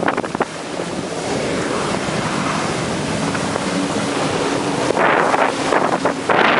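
Jet ski running over open water: water rushing and wind buffeting the microphone, with a faint steady engine hum in the middle. Loud wind gusts on the microphone return about five seconds in.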